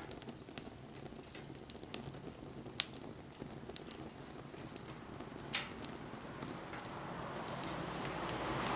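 Wood fire burning, with scattered sharp crackles and pops over a low, steady rustle of flames. In the last couple of seconds a hiss rises and grows louder.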